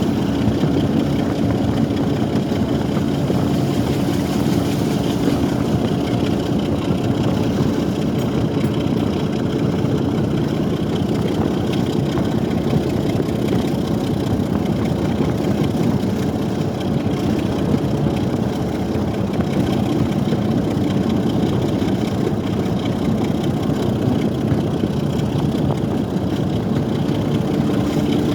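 BR Class 27 diesel locomotive's Sulzer six-cylinder engine working hard as it hauls the train up the incline, a steady engine drone, with wind buffeting the phone's microphone.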